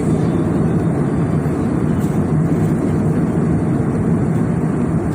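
Steady cabin noise of an Airbus A320 airliner heard from a passenger seat: an even engine and airflow rumble with a low hum, unchanging throughout.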